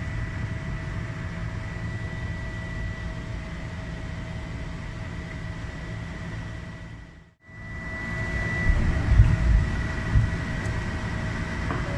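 Electric commuter train heard from inside the driver's cab, running slowly with a steady low rumble and a faint constant whine. The sound drops out for a moment about seven seconds in, then comes back with a few heavier low thumps.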